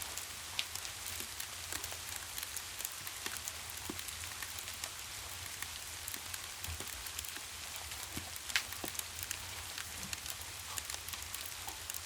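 Steady rain hiss with a wood fire crackling in a fireplace: scattered small clicks, and one louder pop about eight and a half seconds in.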